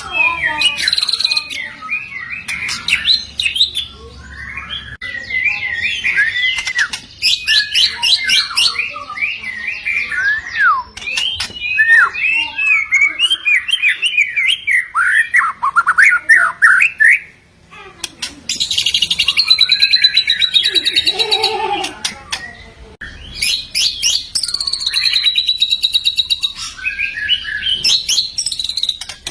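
White-rumped shama (murai batu) singing a long, varied song of swooping whistled phrases, broken several times by fast, dry rattling chatter, with one short pause about two-thirds of the way through.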